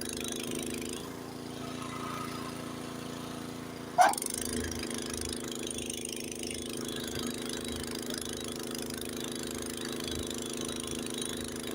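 Honda HS80 track-drive snowblower's single-cylinder engine running steadily under load while clearing deep snow. About four seconds in, one short loud sound stands out above the engine.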